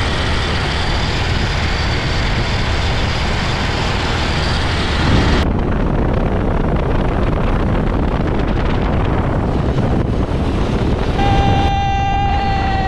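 Motorcycle riding on the road, its engine and the wind on the microphone making a steady rumble and rush. Near the end a held high tone with a slight downward slide sounds over it for a second or two.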